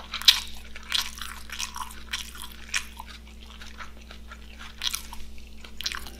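A person chewing and biting food off camera: irregular, short, crunchy mouth sounds, about eight of them spread unevenly, over a faint steady low hum.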